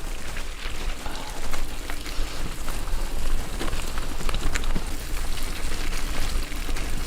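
Bicycle tyres rolling over a rough dirt and gravel trail, a steady crackling and rattling with many small clicks, over a constant low wind rumble on the microphone.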